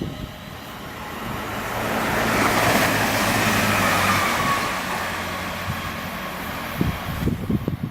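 A train passing through the station: its noise swells to a peak a few seconds in and fades away, with a steady low hum and a whine that falls in pitch as it goes by. Wind buffets the microphone near the end.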